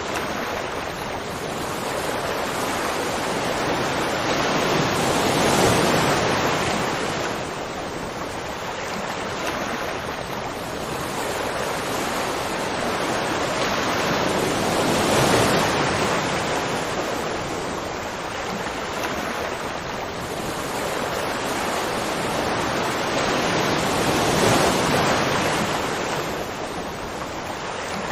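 Continuous rushing water that swells and fades slowly, peaking about every nine to ten seconds.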